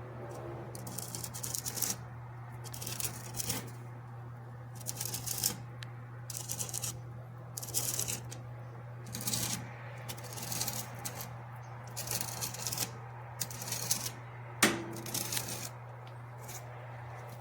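Steady low hum of a countertop convection toaster oven's fan running in air fryer mode, with a dozen or so short crinkling rustles and one sharp click near the end, the loudest moment.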